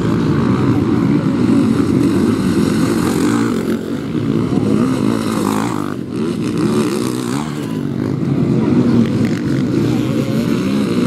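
Several motocross bike engines running at once, their pitch rising and falling as they are revved.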